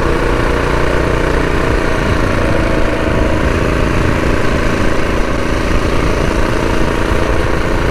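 Predator 212 single-cylinder four-stroke engine on a mini bike running at a steady pitch while riding.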